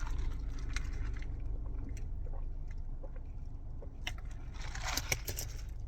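A person chewing and biting fast food close to the microphone, with small mouth clicks and a louder crunchy burst near the end.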